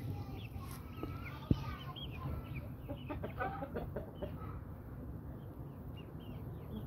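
Brahma chickens clucking, many short calls overlapping, busiest around the middle, with one sharp click about a second and a half in.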